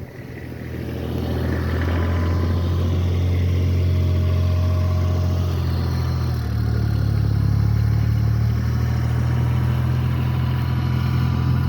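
Snowplow truck's engine running steadily close by, building up over the first two seconds, with a slight shift in pitch about six seconds in.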